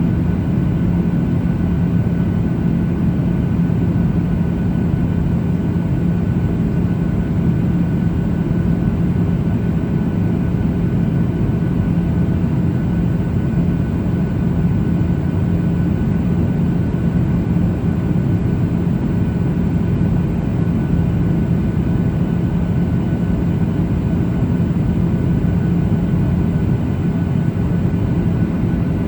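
Steady cabin noise inside a Boeing 737-800 in flight: a constant rush of air with the low, even drone of its CFM56 engines and a steady low hum.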